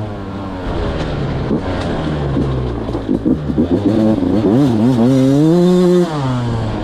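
Beta 200 two-stroke motorcycle's single-cylinder engine revving up and down, with a run of quick throttle blips through the middle, then climbing to a higher held rev before dropping off about six seconds in.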